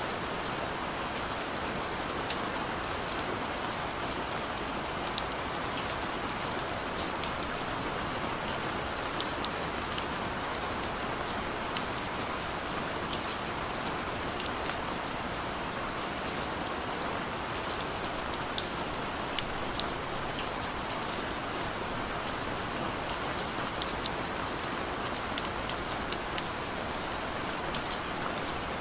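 Steady rain falling, an even hiss with scattered sharp drop ticks on a surface throughout.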